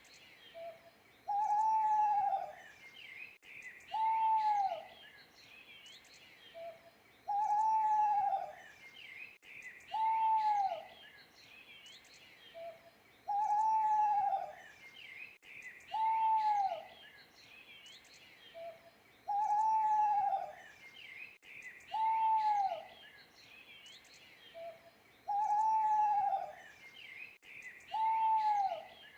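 An owl hooting: a longer then a shorter falling hoot, the pair repeating about every six seconds with a brief soft note between pairs. Small birds chirp faintly throughout.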